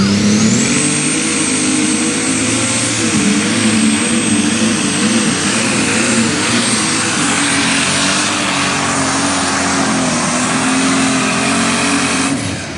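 Super stock pulling tractor's turbocharged Brett Long alcohol engine (John Deere 8210) at full power under load during a pull. A high turbo whine climbs steeply in the first second and then holds, over a wavering engine note. The sound drops away sharply just before the end as the run finishes.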